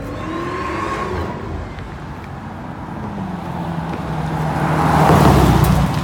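Hemi V8 car engine running hard, growing steadily louder to a peak about five seconds in, then dropping away.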